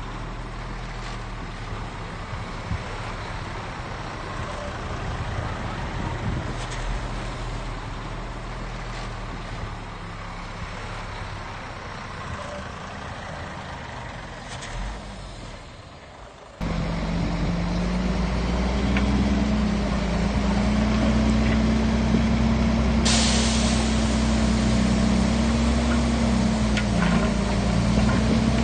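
Diesel engines of heavy earthmoving machinery running steadily. About two-thirds of the way in the sound cuts abruptly to a louder, closer engine with a wavering hum, and a steady hiss joins in a few seconds later.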